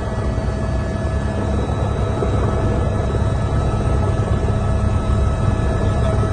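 Glacial lake outburst flood torrent giving a steady, deep roar of rushing water and debris.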